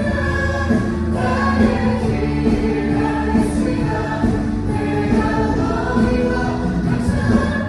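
Choir singing a Korean Christian worship song with steady instrumental accompaniment, picked up as room sound on an iPhone.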